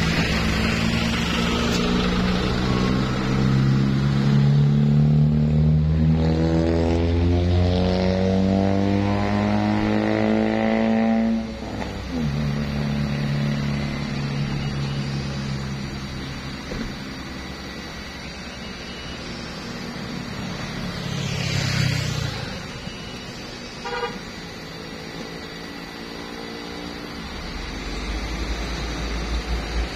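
A heavy truck's engine climbs steadily in pitch for about eleven seconds, then drops suddenly and runs on at a lower, steady pitch that slowly fades.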